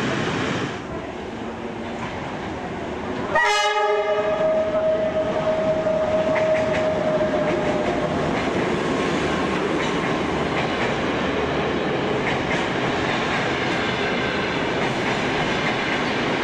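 Passenger train rolling slowly alongside a station platform. The locomotive horn sounds once about three seconds in, one long note that slowly fades, over the steady rumble of the moving carriages, with faint wheel clicks later on.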